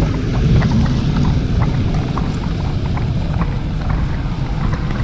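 Rain falling, with scattered drops tapping close by over a steady low rumble of wind buffeting the microphone.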